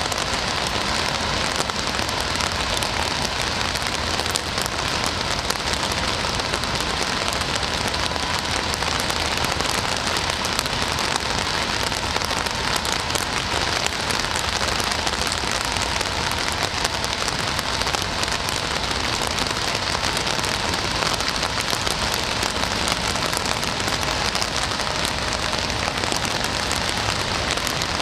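Steady rain falling, an even hiss flecked with the small ticks of individual drops striking a surface.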